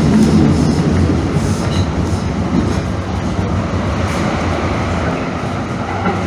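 Calgary Transit CTrain light-rail car running along the track, heard from inside the car: a steady, loud rumble of wheels and rails.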